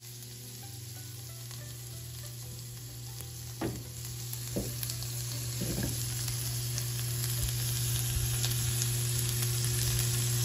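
Flour tortillas and chunks of grilled meat frying on a hot comal: a steady sizzling hiss that grows slowly louder, with a steady low hum underneath.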